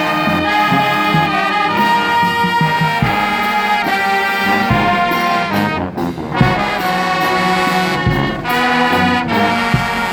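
Marching band playing, brass horns sounding chords and melody lines over drum hits.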